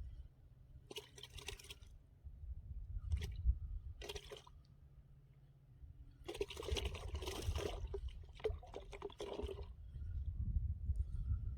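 Water splashing and sloshing in several short bursts, then a longer spell of splashing, over a low rumble.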